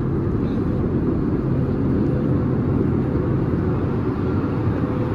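Airbus A320neo cabin in flight: a steady low drone of engine and airflow noise, with a constant low hum running through it.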